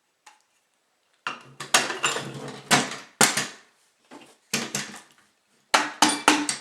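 Metal parts of a Bostitch N88 framing nailer clanking and clinking against each other and the bench as the gun is handled during reassembly, in three bursts of sharp knocks with short metallic ringing.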